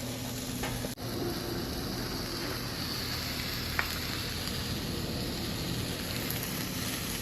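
Food sizzling steadily on a hot portable grill, with one faint tick a little under four seconds in.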